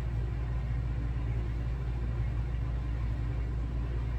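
Small air-conditioning unit in a camper running with a steady low hum.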